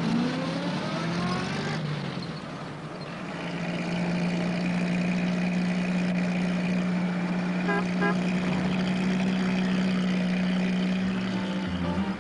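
Small van engine pulling away, its pitch rising over the first two seconds as it speeds up, then settling into a steady drone.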